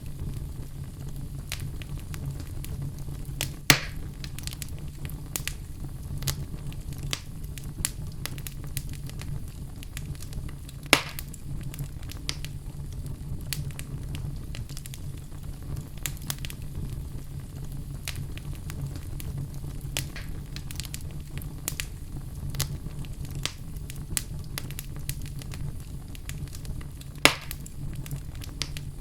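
Wood fire burning in a fireplace: a steady low rumble of flames with frequent sharp crackles and three louder pops.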